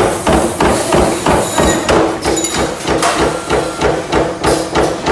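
Forging hammer striking metal again and again in a fast, steady rhythm of about two blows a second, over a steady machine hum.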